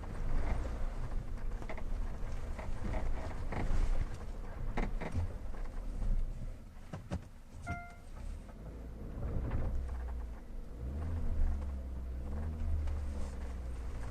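Cabin noise of a 2016 Hyundai Tucson driving over bumps: low road rumble with repeated knocks and creaks, the squeak and noise over uneven road that the owner reports as a fault. A short beep sounds about eight seconds in.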